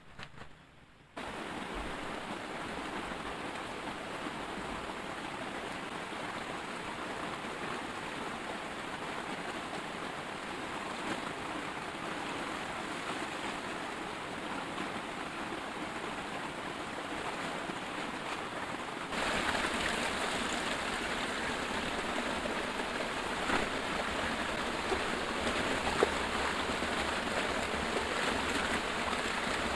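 Heavy rain falling steadily, starting abruptly about a second in and growing louder about two-thirds of the way through, with a few sharp clicks near the end.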